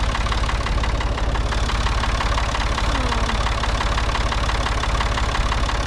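Tractor engine running steadily at idle, a deep even rumble with a fast regular beat of firing pulses.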